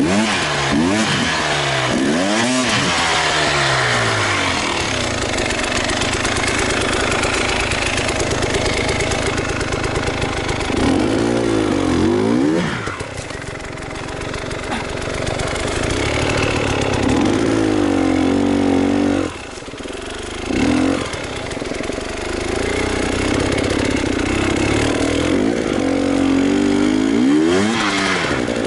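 Enduro motorcycle engine revving up and down again and again, its pitch rising and falling with the throttle. It eases off briefly about a third of the way through and again about two-thirds in.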